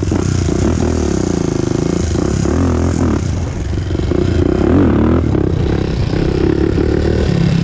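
Honda TRX400EX ATV's single-cylinder four-stroke engine running under throttle while ridden, its pitch rising and falling again and again as it is revved and eased off.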